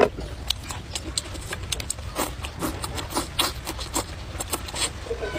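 Close-miked eating sounds: a mouthful of noodles and green vegetable stalks being chewed, with quick irregular wet smacks, clicks and crunches, over a low steady hum.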